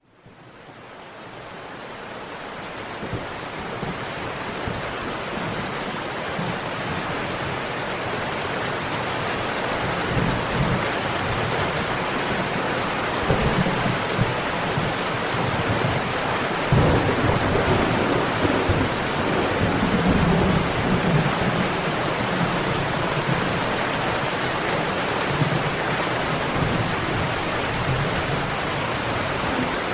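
Steady rain fading in over the first few seconds, with low rolling rumbles of thunder in the middle.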